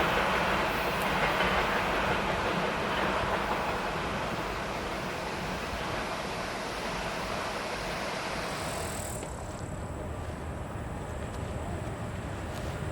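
Freight train wagons rolling past on the rails, a steady clatter that slowly fades as the train draws away. About nine seconds in, the sound changes abruptly to a quieter, duller background.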